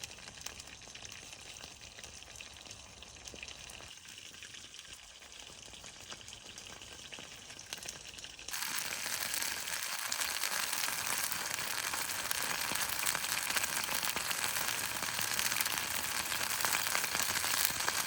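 Food frying in a pan over a campfire: a steady sizzling hiss with fine crackles, which jumps suddenly louder about eight and a half seconds in.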